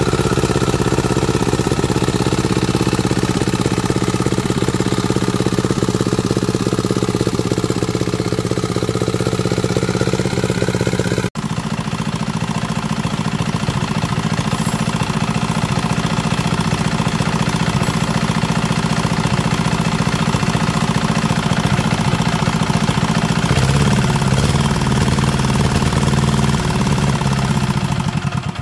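Diesel engine running steadily, with a brief break about eleven seconds in.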